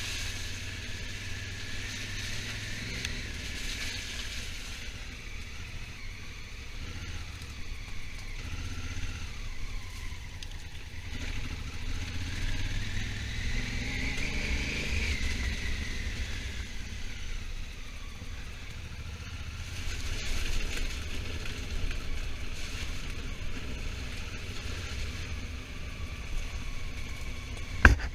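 Honda Africa Twin motorcycle under way, its engine note rising and falling over a steady low rumble, with a sharp click near the end.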